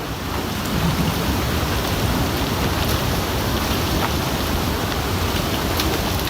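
Steady rushing water of a river surging after an ice dam break.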